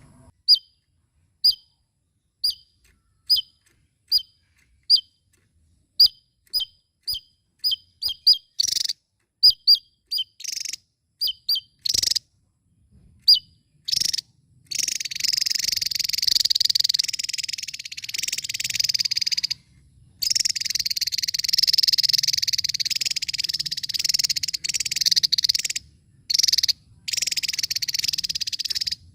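Javan tesia calling: single sharp, downward-slurred chirps about once a second, coming quicker and quicker, that break about halfway through into a continuous, dense, buzzy trilling song with a few short pauses.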